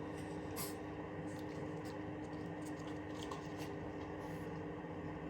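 A steady low hum with faint, scattered rustles and light ticks.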